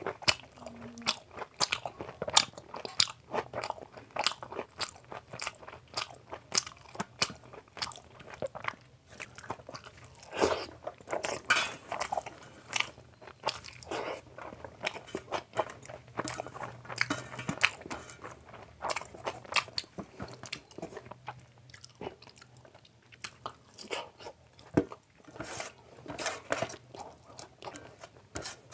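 Close-miked chewing and lip-smacking of chicken liver curry and rice eaten by hand: a steady, uneven run of wet clicks and smacks.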